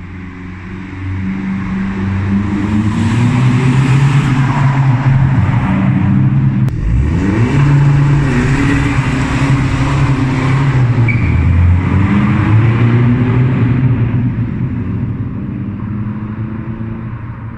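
Straight-piped Vauxhall Vectra 1.9 CDTi turbo-diesel on a stage 1+ tune, run loud under load, its engine note rising and falling as it accelerates and eases off. About seven seconds in there is an abrupt break, after which the pitch climbs steeply again.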